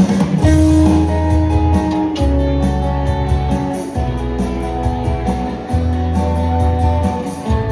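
Live band playing the instrumental opening of a song: strummed guitar chords over a bass line, with a steady beat.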